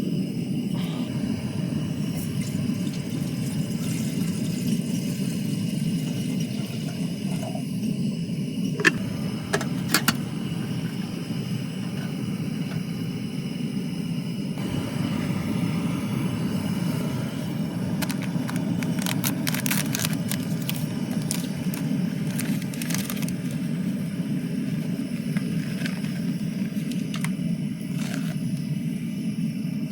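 Steady low rumbling noise, with a few sharp clicks and light clinks scattered through it, most of them in the middle stretch.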